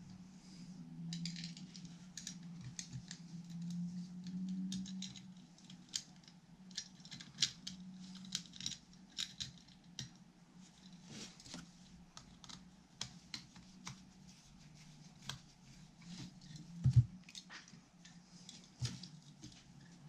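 Hand work on electric guitar parts: irregular small clicks, taps and scrapes of handled components and tools, with one louder knock about seventeen seconds in, over a steady low hum.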